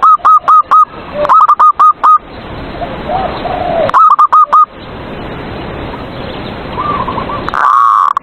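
Zebra dove (perkutut) singing: loud runs of quick, repeated cooing notes, three short bursts and then a longer call near the end, with fainter calls from another bird in the gaps between runs.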